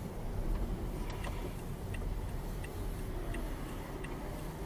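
A car's turn-signal indicator ticking evenly, about one and a half ticks a second, starting about a second in, over a low steady rumble.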